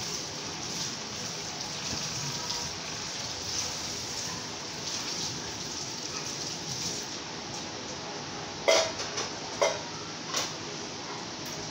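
Steady hiss of heavy rain, with tableware clinking sharply three or four times in quick succession in the last few seconds as food is put out on a plate.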